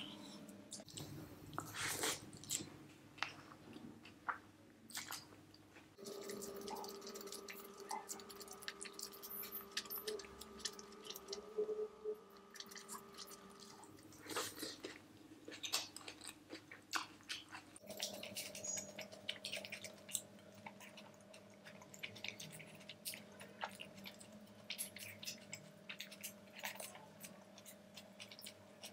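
Chewing a mouthful of chicken biryani, a steady run of small wet mouth clicks and smacks with a few louder bites scattered through.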